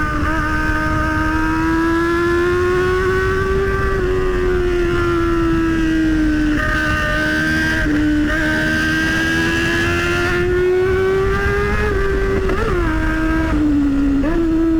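Motorcycle engine running at a steady cruise while riding, its note slowly rising and falling with the throttle, with wind and road rumble on the microphone.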